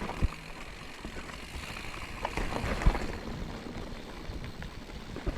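Mountain bike rolling over a rocky trail: steady tyre and wind noise with short knocks and rattles as the wheels hit rocks, the sharpest about three seconds in.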